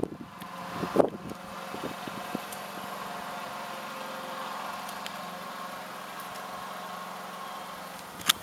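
A vehicle engine idling: a steady, even hum. There is a sharp thump about a second in and a click near the end.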